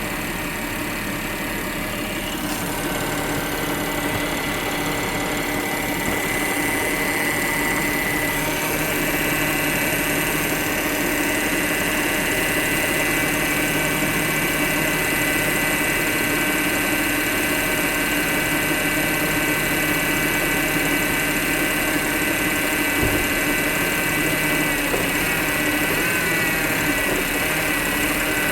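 Audi Q5 3.2 V6 engine running steadily with a constant whine, the sound the owner puts down to a faulty engine mount. One brief low knock comes about 23 seconds in.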